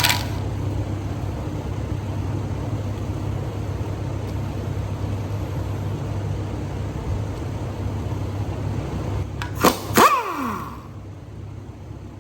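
Steady low workshop hum, then two sharp metallic knocks near the end, the second ringing on with tones that fall in pitch. The hum drops away abruptly just after.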